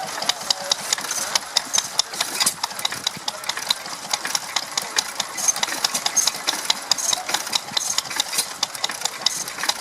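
Vintage stationary engines running, a rapid, uneven train of sharp clicks and ticks, several a second.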